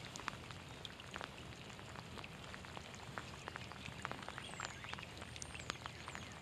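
Light rain falling, a steady faint hiss with scattered drops ticking irregularly. A few faint high chirps come in the second half.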